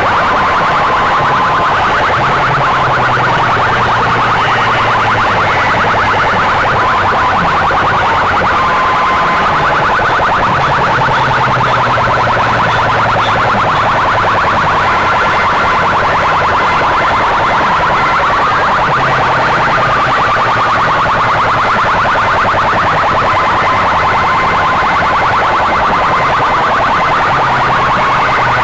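Stacked loudspeaker boxes of a sound-system rig blasting loud, buzzy, siren-like wavering tones, with a low bass hum that comes in and out every few seconds.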